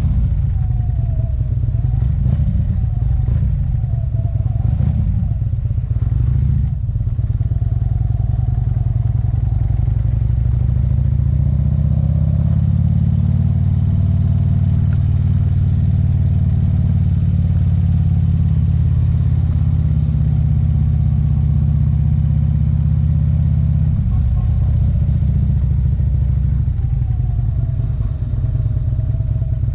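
Motorcycle engine running while under way. Its pitch shifts over the first few seconds with a brief break about seven seconds in, holds steady for about twelve seconds, then changes again near the end.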